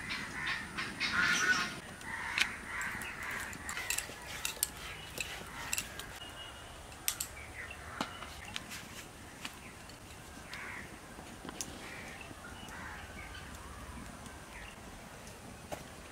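Birds calling repeatedly, loudest in the first couple of seconds and coming back more faintly later, with scattered sharp clicks and taps in between.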